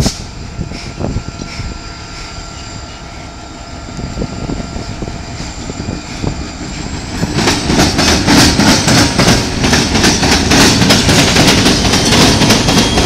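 Diesel freight locomotives approaching and passing close by. Their engine noise grows much louder about seven seconds in, along with rapid clicking of wheels over the rails as the locomotives go past.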